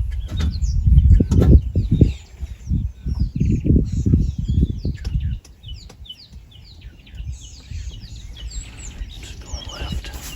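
Many birds calling in short, quick downward-sweeping chirps, thickest in the second half, over loud wind buffeting the microphone that eases about halfway through.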